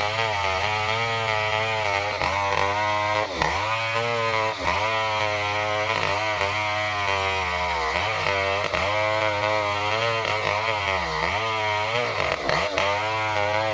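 Stihl 070, a big two-stroke chainsaw, running at high revs under load while ripping lengthwise through a durian log. Its pitch sags and recovers every second or so as the chain bites into the wood.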